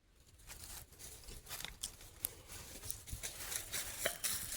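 Faint, scattered crackling and rustling of dry fallen leaves, a run of small irregular clicks that grows busier towards the end.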